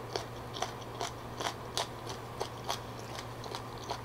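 Close-miked chewing of crunchy beef tendon: short, irregular crunches, about two a second.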